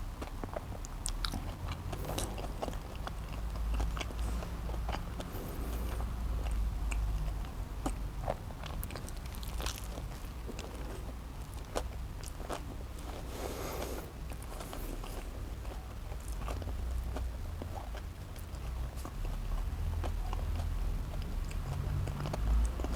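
Close-miked chewing and biting of a cheeseburger, with many small wet clicks, and a short burst of noise a little past the middle.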